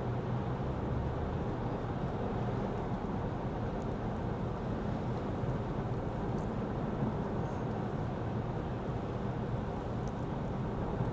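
Steady cabin drone of a Lexus ES 350 F Sport sedan driving on a wet road: tyre and road noise with a low engine hum.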